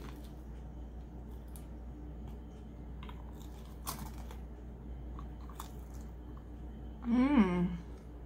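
Close-miked chewing of a crunchy crostini topped with cured meat, with a few faint mouth clicks and crunches. About seven seconds in comes a short hummed vocal sound, rising then falling in pitch, the loudest sound.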